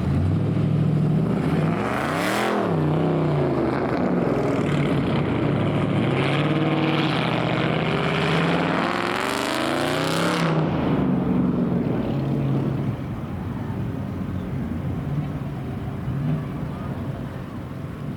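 Dodge Scat Pack's 6.4-litre HEMI V8 being revved: a quick blip about two seconds in, then a longer climb to a peak near ten seconds that falls back to idle.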